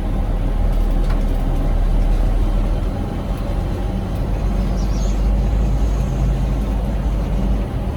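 Charter coach running, a steady low engine and road rumble heard from inside the passenger cabin.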